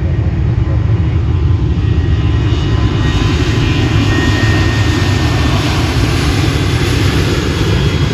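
Boeing 737-700's CFM56 jet engines at takeoff power on departure: a loud, steady low rumble with a hiss and a faint whine that grow stronger a few seconds in.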